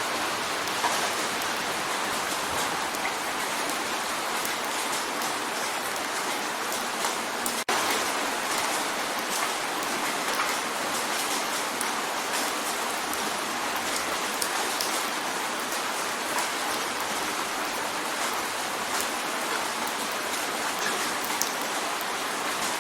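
Rain drumming on a window pane: a steady hiss of rain dense with small drop ticks, with a momentary drop-out about eight seconds in.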